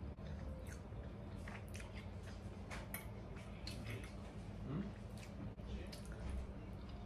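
A person chewing a mouthful of food, with scattered small wet mouth clicks and light taps of a fork on a plate.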